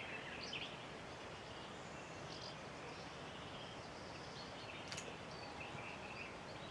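Quiet outdoor background with a few faint, short bird chirps scattered throughout, and one brief click about five seconds in.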